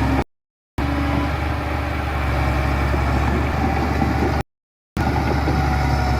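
Heavy diesel engines of construction machinery running steadily, a low, even hum. The sound drops out completely twice, for about half a second each, near the start and about four and a half seconds in.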